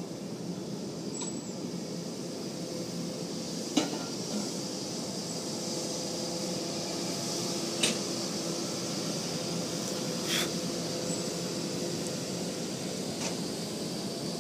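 Streamlined steel passenger cars of a long train rolling past on steel wheels: a steady rumble and hiss of wheels on rail, broken by four sharp metallic clanks a few seconds apart.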